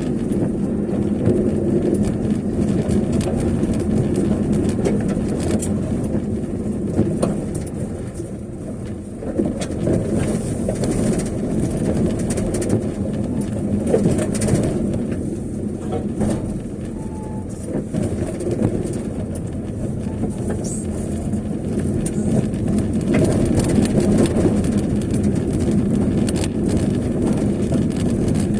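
Car driving along a road: steady engine and road noise, with frequent clicks and knocks over it.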